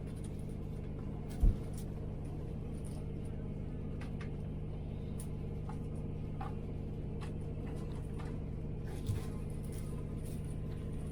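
Steady hum and rumble of a moving train heard from inside the carriage, with one low thump about a second and a half in and faint scattered clicks and rattles.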